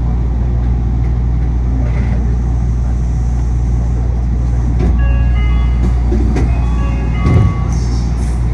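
Steady low drone inside a monorail car, from its air conditioning and running gear. From about five seconds in, a short run of stepped high tones sounds over it, and there is a brief thump near the end.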